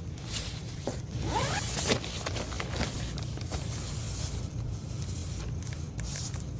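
A quick run of short rasping scrapes about a second in, thinning out after about three seconds, over a steady low rumble.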